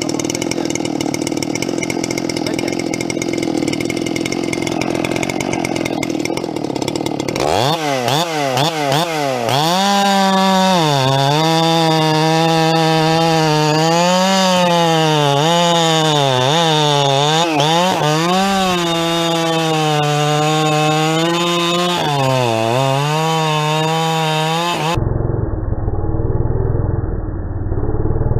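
Two-stroke chainsaw running at high revs while bucking firewood. After about seven seconds the engine note comes out clear and swings up and down as the throttle is worked and the chain loads and unloads in the wood. A few seconds before the end the sound changes abruptly to a duller, muffled low sound.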